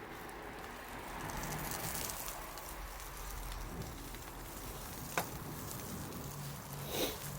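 Wood bonfire crackling steadily, with scattered small pops and one sharp snap about five seconds in.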